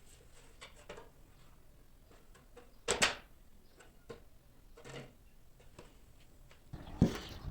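Scattered small clicks and knocks of objects being handled, with a louder knock about three seconds in and a sharp, loud one near the end.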